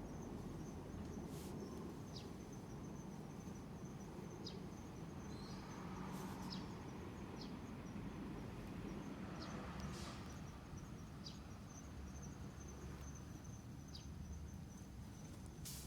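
Crickets trilling steadily in one continuous high tone, with short high chirps scattered through it, over a low steady background rumble. A few faint clicks fall at intervals.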